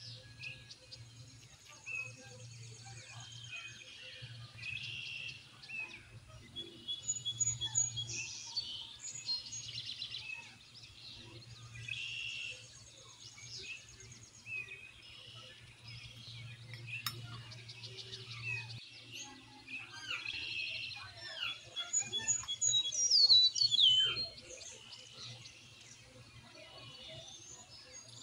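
Several birds chirping and calling over one another in short trills and whistles, with a louder falling call a little after twenty-three seconds in; a low steady hum runs underneath.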